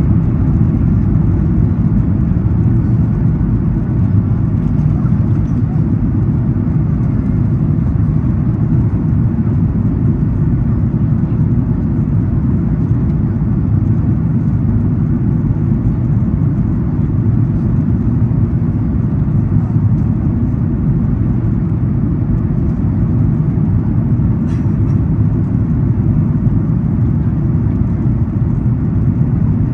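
Cabin noise inside a Boeing 737 MAX 8 on its approach: a steady low rumble of airflow and engines.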